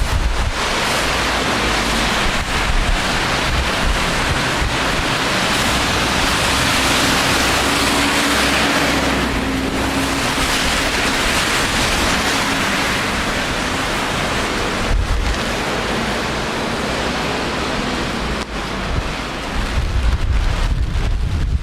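Steady, loud hiss of rain and wet street traffic, with wind buffeting the microphone in low rumbles, most strongly near the end.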